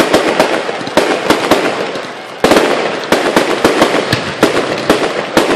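Fireworks display: aerial shells bursting overhead in a rapid run of bangs and crackles, easing briefly before a loud new burst about two and a half seconds in that sets off another dense volley.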